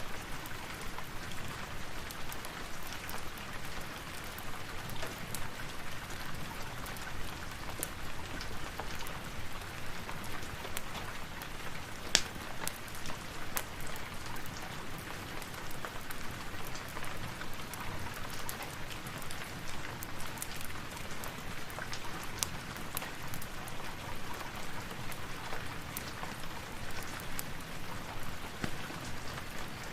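Steady rain, an even patter, with scattered sharp clicks through it and one louder snap about twelve seconds in.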